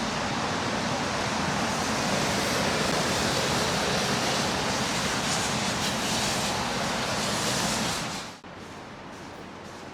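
Loud, steady rushing noise with no distinct tones, which cuts off abruptly a little past eight seconds in, leaving a much quieter hiss.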